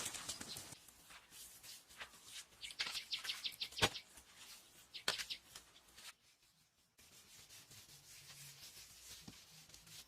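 Hand-work noises: scraping and rubbing strokes with a quick run of short scrapes, a single sharp knock just before the middle and another sharp stroke a second later.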